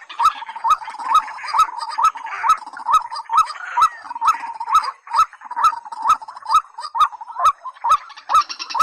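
Rail-family bird calls (waterhen/crake), looped for use as a lure: a short rising note repeated steadily about two to three times a second, with sharp regular clicks. A denser, higher sound joins near the end.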